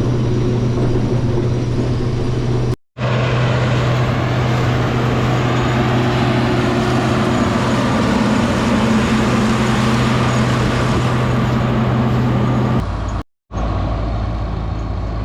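Combine harvester's diesel engine running steadily under load with a deep hum and a noisy rush of machinery; the sound cuts out briefly twice.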